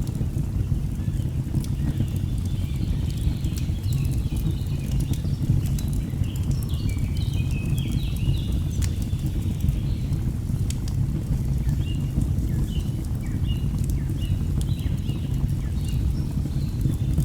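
Nature ambience mix: a steady low rush of falling water under scattered crackles and pops of a burning wood fire, with a bird singing in short, quick chirps from about three seconds in.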